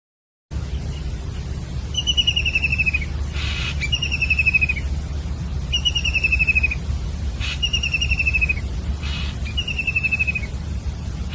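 A bird calling: five descending, trilled calls, each about a second long and about two seconds apart, over a steady low rumble. The sound begins about half a second in.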